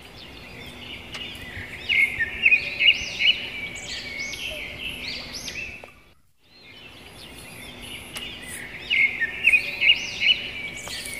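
Birds chirping in quick runs of short rising-and-falling calls over a steady high hiss. The same few seconds of ambience play twice, with a brief break of silence about six seconds in.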